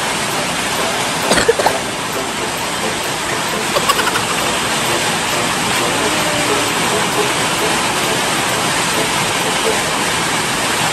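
Heavy rain pouring steadily, a dense even hiss of water. A few short sharp taps stand out about a second and a half in and again around four seconds.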